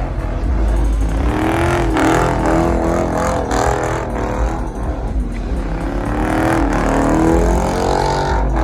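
Car engines revving at a car meet, the pitch rising and falling repeatedly.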